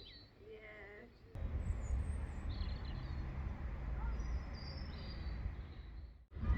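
Small birds chirping, then a sudden change about a second in to a steady low rumble with a few faint bird calls over it.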